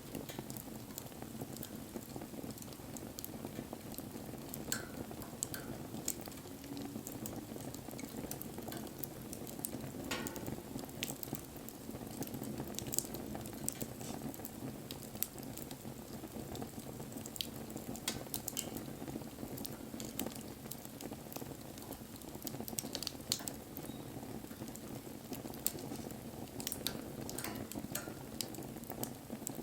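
Wood bonfire burning: a steady low rush of flames with sharp crackles and pops at irregular intervals.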